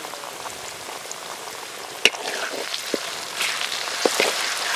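Onion, tomato and green chilli masala sizzling in hot oil in an iron kadai, ginger-garlic paste just added. A spatula stirs through it, adding scrapes and clicks against the pan, with one sharp click about two seconds in.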